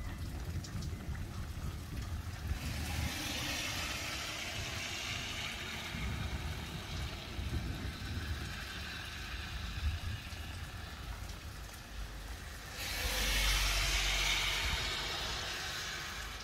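Rain and wind of an arriving thunderstorm: a steady hiss of rain over a low rumble. The hiss swells about three seconds in and again, louder, near the end.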